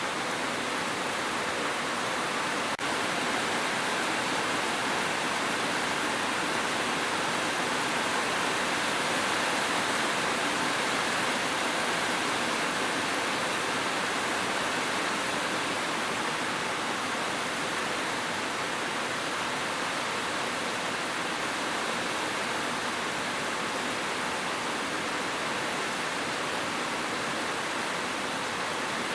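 Steady, dense rain falling, an even hiss with no single drops standing out. There is a tiny click and dip in level about three seconds in.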